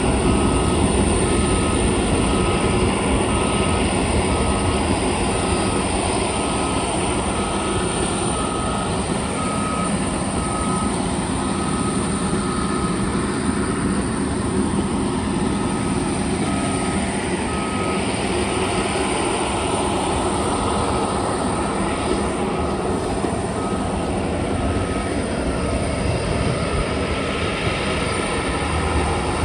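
Aircraft turbine engines running steadily, with a constant high whine over a dense roar. A short beep repeats about twice a second through most of it.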